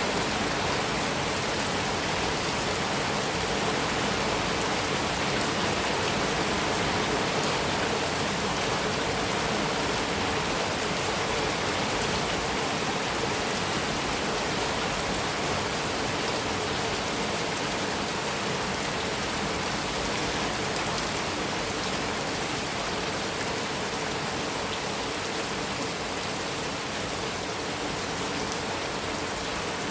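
Heavy rain falling steadily on a metal roof, an even, unbroken hiss.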